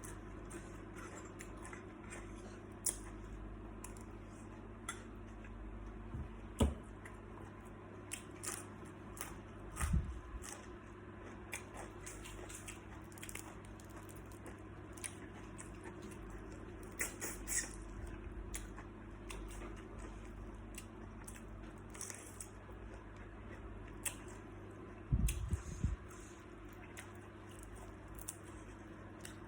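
Close-up eating sounds of a person chewing and biting salt-baked shrimp: wet squishing and chewing with scattered small crunches and clicks, over a steady low hum. There are a few louder knocks, one about seven seconds in, one about ten seconds in, and a cluster near the end.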